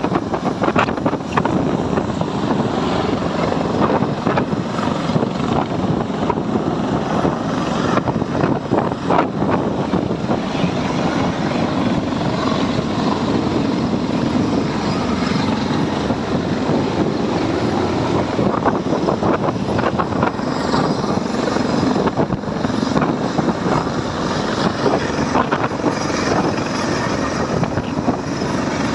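Helicopter running, its noise mixed with strong wind buffeting the microphone, loud and steady throughout.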